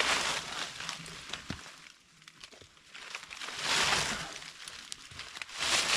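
Dry brush and leaves rustling and crunching in three loud bursts: near the start, about four seconds in, and again near the end, with lighter crackles between.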